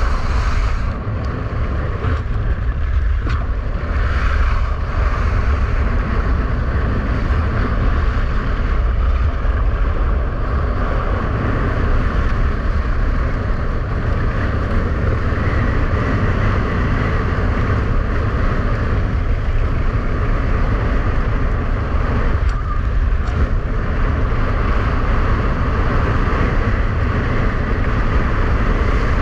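Strong wind buffeting the microphone as a ski-winger rides fast in a blizzard, over the steady rushing scrape of skis running on rough ice.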